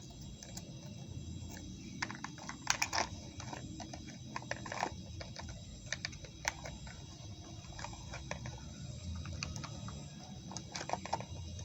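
Small plastic toy pieces clicking and tapping as they are handled and set into a plastic toy refrigerator: irregular light clicks, a few at a time.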